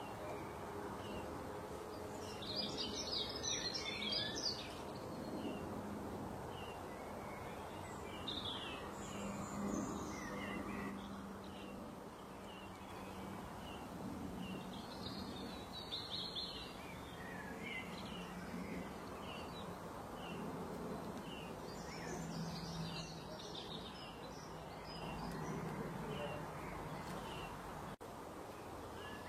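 Birds chirping, with short repeated chirps throughout and fuller bursts of song every several seconds, over a steady background noise with a faint low hum.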